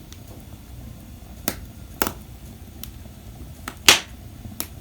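Firewood burning in a fireplace, crackling with sharp, irregular pops and snaps, the loudest about four seconds in.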